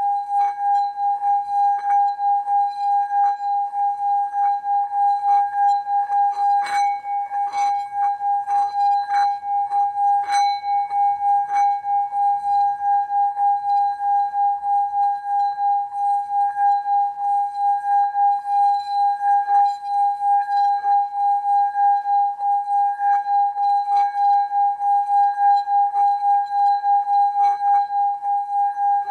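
A rubbed singing bowl sounds one steady ringing tone that swells and fades about one and a half times a second. Light ticks of the mallet chattering against the rim come between about 6 and 12 seconds in.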